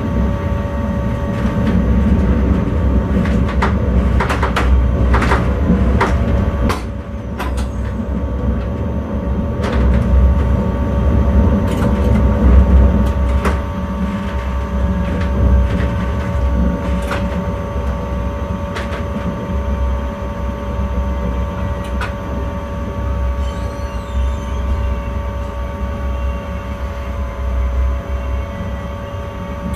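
Electric intercity train running, heard from the driver's cab: a steady low rumble and a steady whine, with irregular sharp clicks and knocks, most of them in the first half.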